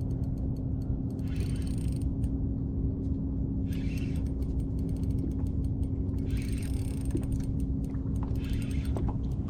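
Steady hum and low rumble from the boat, broken four times by short stretches of fine rapid clicking: a fishing reel being cranked in.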